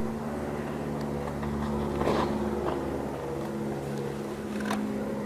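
A steady engine hum at an even pitch, with a faint click about two seconds in and another near the end.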